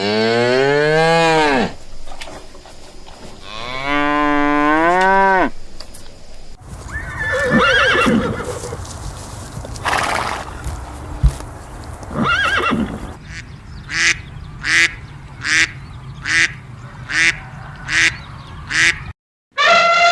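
A run of farm animal calls: a cow mooing twice, long calls with low rising-then-falling pitch, then a horse neighing, then eight short duck quacks about one a second.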